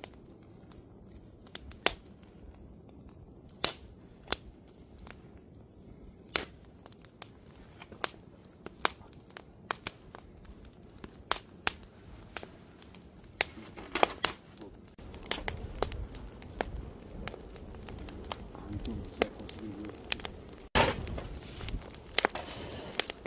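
Wood fire crackling, with sharp, irregular pops. A low rumble joins about two-thirds of the way through.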